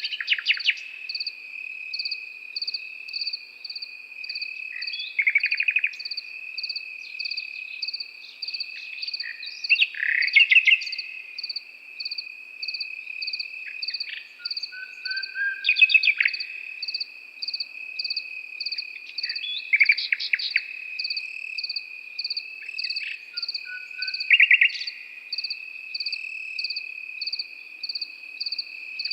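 Nightingale singing short phrases of rapid repeated notes and trills, about one every five seconds, some opening with a low whistle. Behind it, crickets: one trilling steadily and another chirping about twice a second.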